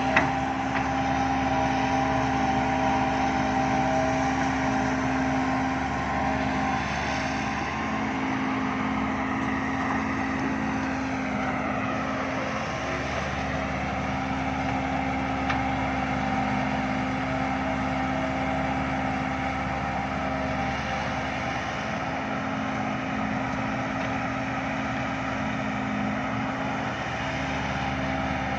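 Heavy truck's diesel engine running steadily, its pitch dipping and rising again about halfway through.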